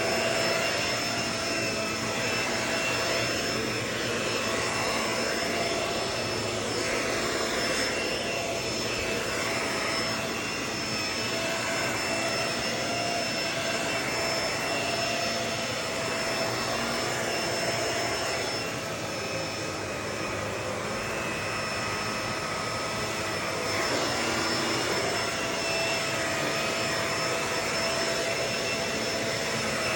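Vacuum cleaner running steadily, a rush of air under a steady motor whine, with the texture shifting as it works.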